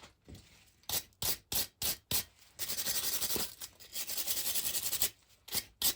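Hand scraping or rubbing on a part. There are five quick strokes in about a second and a half, then about two and a half seconds of steady rubbing, then a few more short strokes near the end.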